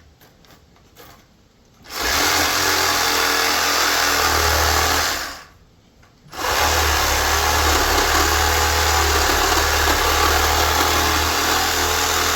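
Cordless power tool cutting through a large electric motor's metal casing, run in two long stretches with a short pause between: it starts about two seconds in, stops for about a second, then runs again until near the end.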